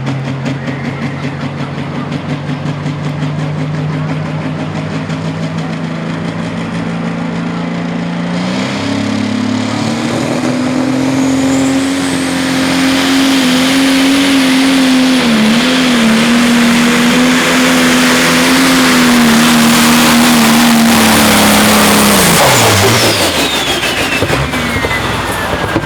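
Pro Stock pulling tractor's turbocharged diesel engine running steady at lower revs, then opening to full throttle about eight seconds in and holding high revs under load for some fourteen seconds, with the turbo's whistle rising. Near the end the revs fall away and the turbo whine winds down.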